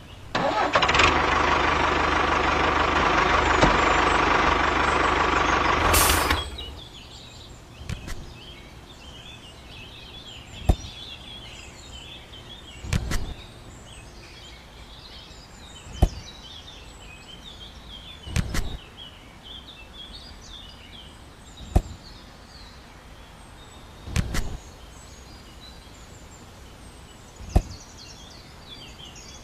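A small motor runs steadily for about six seconds and then stops suddenly. After it, birds chirp, with a sharp knock every two to three seconds.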